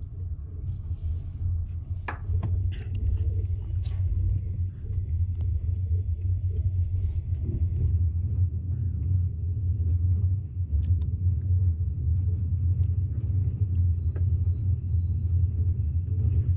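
Double-decker sleeper train running: a steady low rumble, with a few sharp clicks in the first few seconds.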